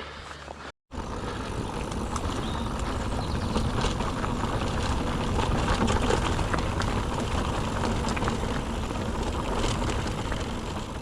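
Mountain bike riding over a rough off-road track: tyre rolling noise and low rumble, with frequent small clicks and rattles from the bike. The audio cuts out briefly about a second in.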